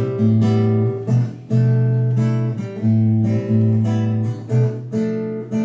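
Acoustic guitar strummed in a steady rhythm, playing an instrumental passage between verses of a song, with the chord changing about every second.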